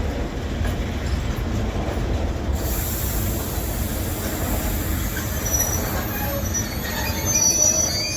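Train of wagons behind a Newag Dragon 2 electric locomotive rolling past, with a steady rumble of wheels on rail and high-pitched wheel squeal that sets in about a third of the way through and grows loudest near the end, then cuts off as the last wagons go by.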